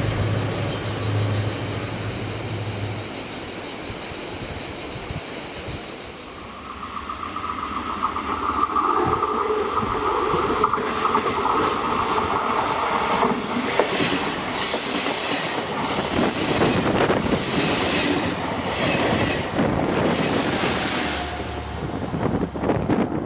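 A train passing by: steady tones build first, then from about halfway a quick run of wheel clatter over the rail joints with high-pitched wheel squeal, until it fades near the end.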